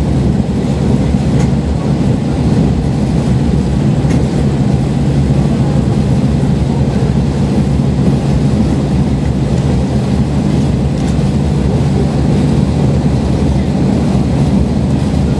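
Diesel railcar running steadily at speed, heard from inside the passenger cabin: a low engine drone under the rumble of the wheels on the rails, with a few faint ticks.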